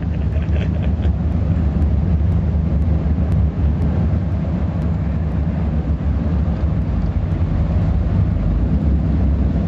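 Offshore powerboat's engines running at speed, a steady low drone under a rush of wind and water.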